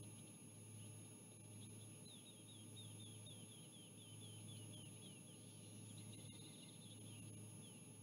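A faint bird call: a run of short, high, falling notes repeating about three times a second, over a steady low hum.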